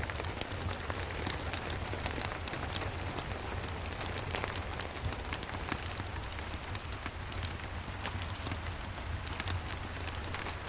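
Steady rain falling, with many small sharp crackles and pops of a wood fire over it and a low steady rumble underneath.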